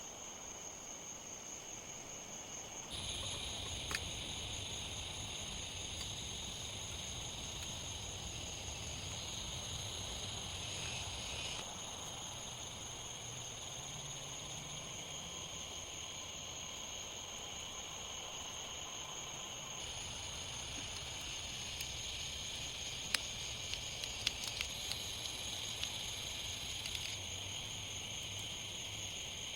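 Steady hiss of rain with a continuous high-pitched insect drone over it; the hiss changes abruptly a few times, and a handful of sharp ticks of drops come about two-thirds of the way through.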